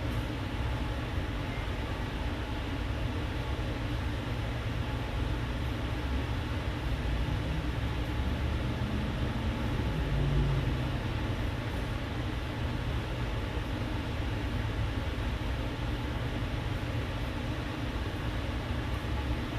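Steady low rumbling background noise with an even hiss, swelling slightly about ten seconds in.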